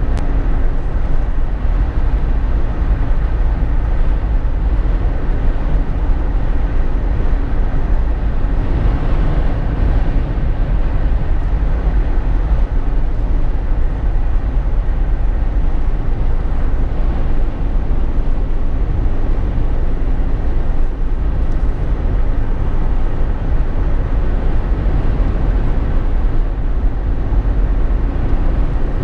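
Steady road noise inside the cabin of a Jeep Wrangler JK on the move: a continuous deep rumble of engine and tyres that neither rises nor falls.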